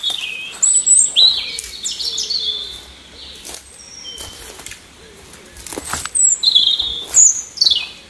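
Songbird calling in quick runs of short, falling whistled notes, once at the start and again near the end. Sharp snaps of footsteps on dry twigs and pine litter fall in between.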